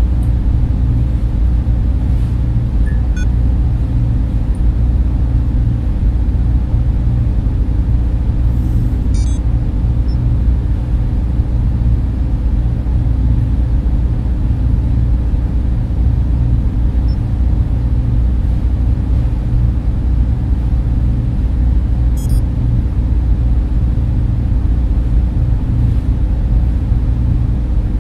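Steady, deep rumbling hum of a data center's server fans and cooling, unchanging throughout, its sound concentrated in the low end.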